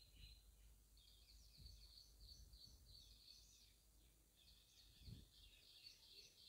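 Near silence, with faint bird chirping in the background in two runs of quick chirps and one soft low thump about five seconds in.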